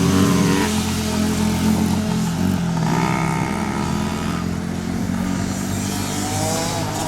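Flat-track racing motorcycles running at speed, their engine notes rising and falling as they race around the dirt oval.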